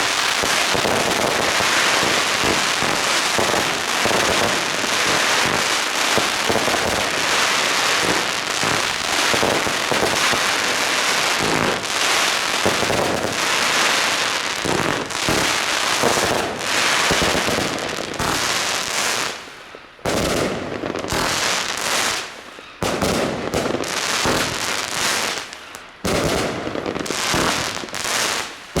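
Xplode Double Deck Red firework cakes, three fired at once, bursting into a dense, continuous sea of crackling. In the last third the crackle breaks off in a few short lulls.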